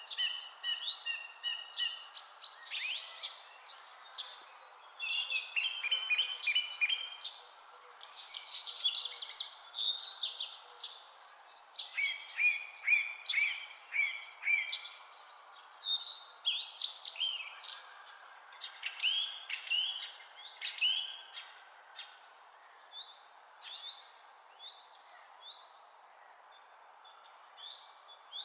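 Songbirds singing and calling: a busy overlapping chorus of quick chirps, trills and short whistles, thinning out to scattered chirps in the last several seconds, over a steady low background hiss.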